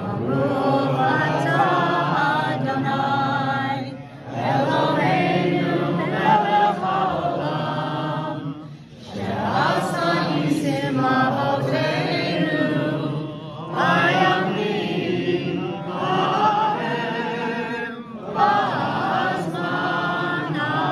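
A group of voices singing a Hebrew Hanukkah prayer chant, in phrases of about four to five seconds with short pauses between them.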